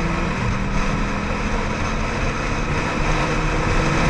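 Ducati Monster 795's air-cooled L-twin engine running at a steady note while riding, under an even rush of noise.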